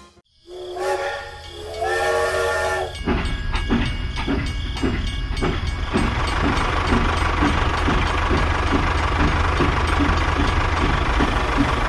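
A cartoon sound effect: a whistle sounds twice in two held notes, the second a little higher, then a vehicle engine starts chugging with a low rumble and an even beat of two to three pulses a second.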